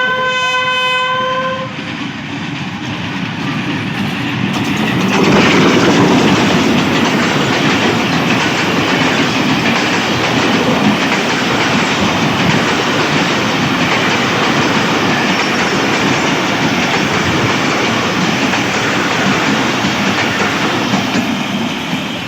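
Hitachi HBU-20 diesel-electric locomotive horn sounding in several tones, cutting off about a second and a half in. The train then passes close by with a loud, steady rumble and clatter of wheels on rail, growing louder about five seconds in.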